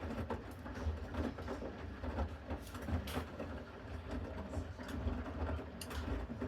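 Bosch Series 6 front-loading washing machine in its main wash: the drum turns the wet load with a steady low hum that rises and falls, and swishing bursts now and then as the laundry tumbles.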